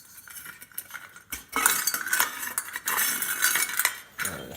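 Metal parts of an old chandelier clinking and rattling against each other as it is handled and worked apart, quiet at first and then a busy clatter from about a second and a half in.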